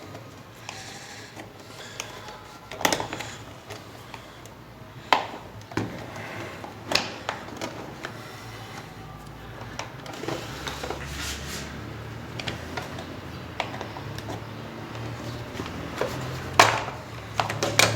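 Stand fan's plastic housing being unclipped and handled: scattered clicks and knocks of plastic parts, with a few sharper snaps.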